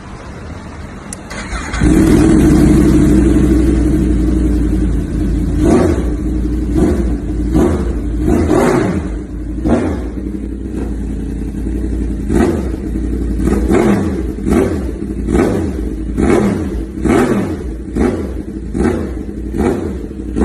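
2020 Yamaha YZF R1M's crossplane inline-four, breathing through an SC Project CR-T exhaust, fires up about two seconds in and runs steadily at a fast idle. It is then revved in a long run of quick throttle blips, about one a second, each rising sharply and dropping back.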